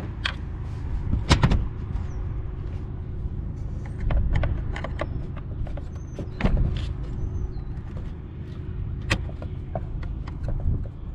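Scattered clinks and knocks of hand tools and parts being handled while the fan and fan clutch are taken off a van engine, over a steady low rumble. The loudest knocks come about a second and a half in and again near six and a half and nine seconds.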